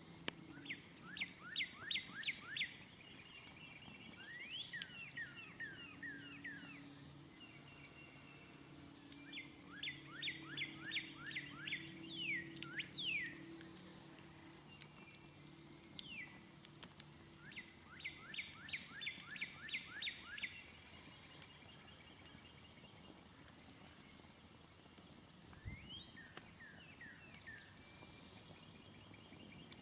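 A songbird singing five phrases of rapid descending notes, each phrase a quick trill lasting one to three seconds, a few seconds apart. Faint scattered crackles from a campfire run underneath.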